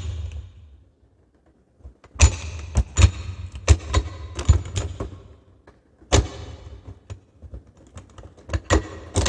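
Clicks, taps and knocks of parts being handled and fitted on a small home espresso machine: a cluster of sharp knocks between about two and five seconds in, one more near six seconds, and several near the end.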